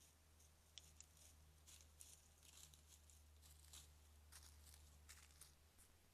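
Near silence: faint, irregular rustling crackles over a steady low hum.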